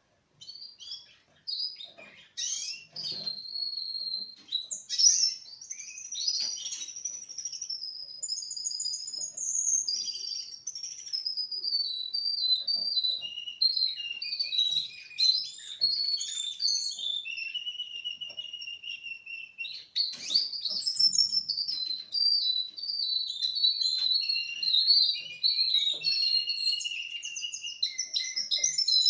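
Four-month-old male Russian canary singing a long, nearly unbroken song of rapid trills and rolling whistled phrases, with a held lower note about two-thirds of the way through.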